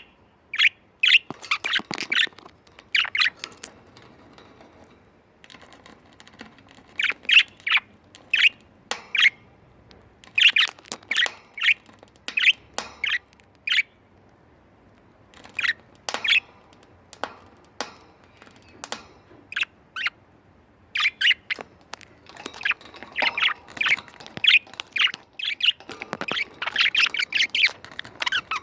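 Budgerigars chirping and squawking in short, sharp calls that come in bouts with brief pauses, busiest near the end.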